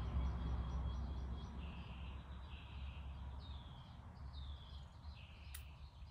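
A bird in the background repeating a short falling call about once a second, over a steady low rumble. A single sharp click sounds near the end.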